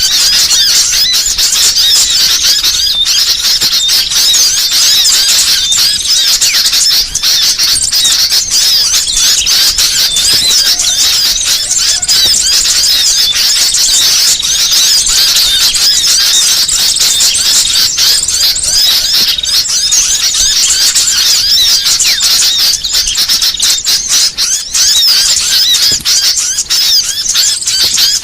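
Many small songbirds twittering and chirping at once, fast high-pitched trills and squeaks overlapping without pause. It is a mixed small-bird tutor and lure track (masteran).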